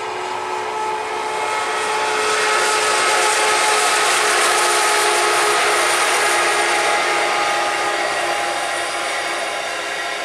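Diesel locomotives of a loaded grain train passing close by, engine noise with a steady whine and a hissing rush of wheels on rail that builds to its loudest about three to five seconds in, then eases as the grain hopper wagons roll past.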